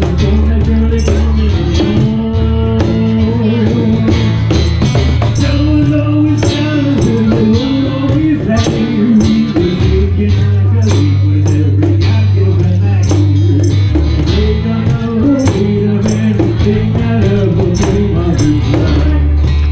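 Live acoustic band music with a cajón keeping a steady driving beat. Held low bass notes change about halfway through, under a bending melody line.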